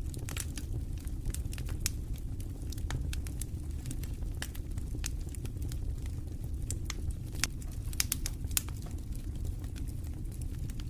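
Campfire crackling, with irregular sharp pops and snaps, over a steady low rumble of wind.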